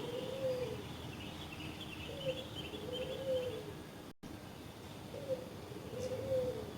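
A dove cooing, a short rising note followed by a longer arched coo, repeated three times. Faint twittering of small birds comes in the middle, and the audio cuts out for a split second just after the middle.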